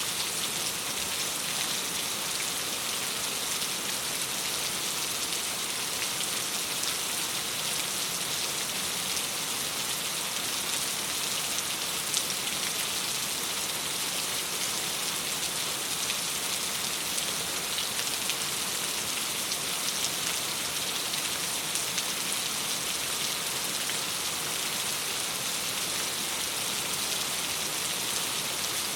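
Steady rain pattering against a window pane: a dense, even hiss with faint scattered ticks of single drops.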